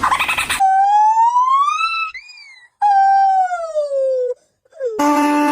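Canine howling: a long howl rising in pitch over about a second and a half, a short inflected call, then a second long howl falling in pitch. At the very start a harsh noisy sound cuts off, and near the end a steady lower tone begins.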